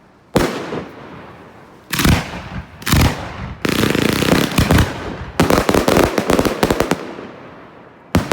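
Fireworks firing: a single bang, then a cluster of reports and a stretch of dense crackling, followed by a rapid string of sharp bangs lasting about a second and a half, and one more bang near the end. Each bang trails off in a fading echo.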